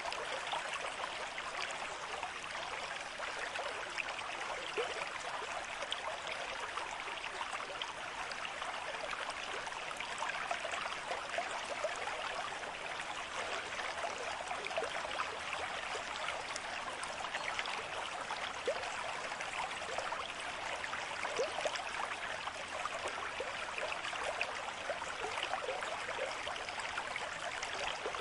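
A small stream flowing steadily, with many quick little splashes in the flow.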